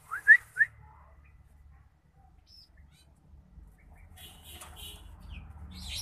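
Three quick rising bird chirps right at the start, the loudest sound here, followed by faint scratchy noises in the second half.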